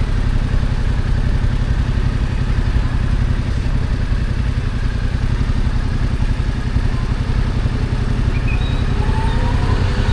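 Yamaha XSR700's 689 cc parallel-twin engine running steadily through its stock exhaust, a low, even drone with no big revs.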